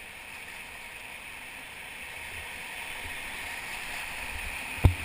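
Rushing whitewater of the Ocoee River, a steady hiss of moving water that grows gradually louder, with one sharp knock near the end.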